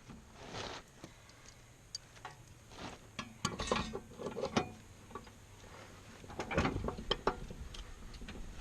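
Irregular metallic clicks, clanks and knocks of hand tools and parts being handled while the blades are changed, bunched in two spells, one in the middle and one near the end.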